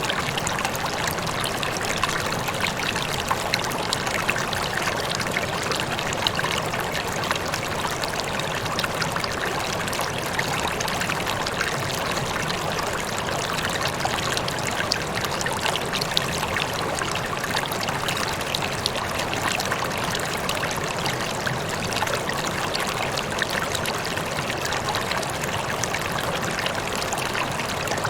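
Small stream of water rippling and trickling, a steady bubbling babble of many small splashes.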